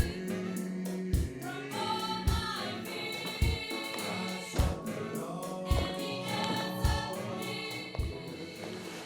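Gospel-style choir singing over music with a steady low beat about once a second.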